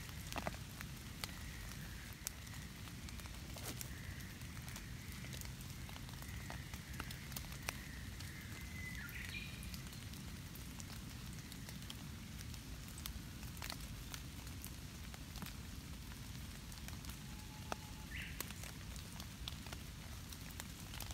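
Light rain falling on leaf litter and foliage: a steady patter with scattered single drops ticking.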